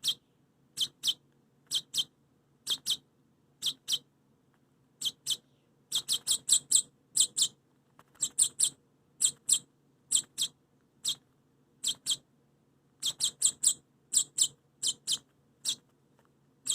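A rescued baby bird giving short, high chirps in quick clusters of two to four, again and again, excited while being hand-fed with tweezers.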